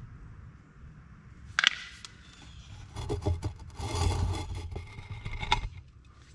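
Plastic ATV air box and its stuck air cleaner being worked loose by hand: scraping and rubbing, with one sharp knock about a second and a half in and a denser stretch of scraping from about three seconds until shortly before the end.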